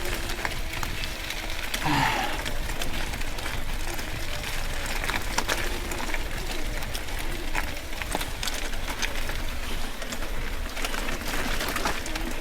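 Mountain bike riding over a wet, rocky trail: tyres crunching over stones with scattered clicks and rattles from the bike, over a steady rumble of wind and motion on the camera microphone.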